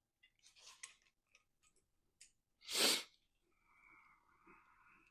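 A few light clicks and scrapes of hand work on engine parts, then one loud, short burst of noise about three seconds in, followed by a faint steady hiss.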